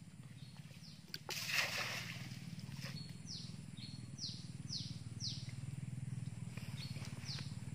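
Outdoor ambience in tropical undergrowth: a bird repeats short, high chirps that fall in pitch, over a low steady hum. There is a brief burst of rustling about a second and a half in.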